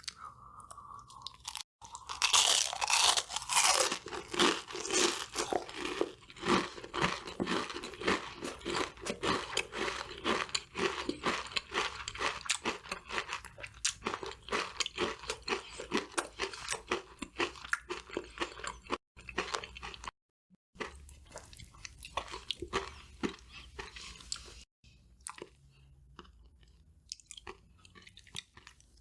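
Close-miked ASMR eating of crispy fried KFC food: loud, crackling crunches as it is bitten and chewed. Softer, sparser chewing follows after about 20 seconds, broken by a few abrupt silent cuts.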